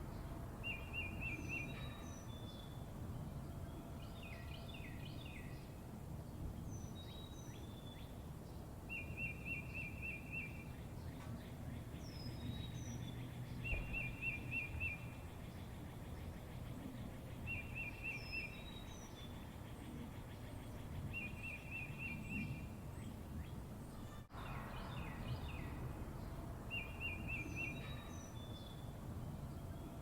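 Small birds singing: a short, fast trill repeated every few seconds, with high falling whistles and runs of chirps between, over a steady low outdoor rumble.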